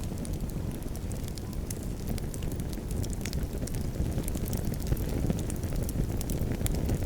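Campfire crackling: many small sharp pops and snaps scattered over a steady low rumble.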